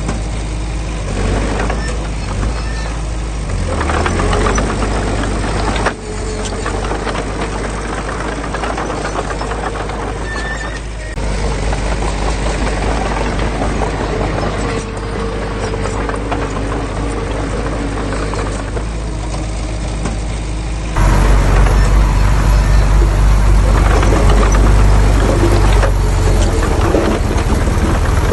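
Diesel engine of heavy earthmoving machinery running steadily under work, with abrupt changes in level a few times where the footage is cut, the loudest stretch starting about two-thirds of the way in.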